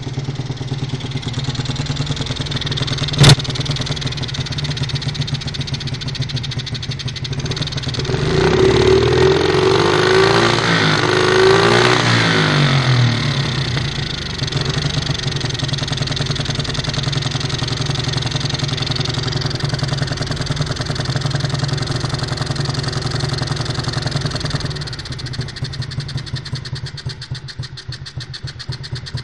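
Dirt bike engine idling steadily, with one sharp click about three seconds in. About eight seconds in it is revved up for several seconds, then drops back to idle. The idle grows uneven near the end.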